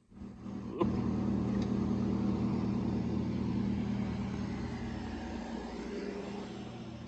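Window air conditioner running: a steady electric hum of compressor and fan, with a sharp click about a second in.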